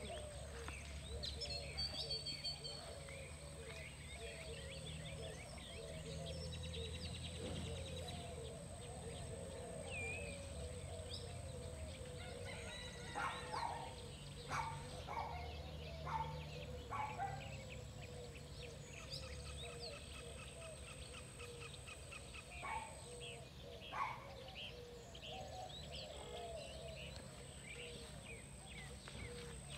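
Faint outdoor birdsong: several birds chirping and calling over a steady low rumble. Midway, louder calls come about once a second for a few seconds, and a thin steady high tone sounds above them.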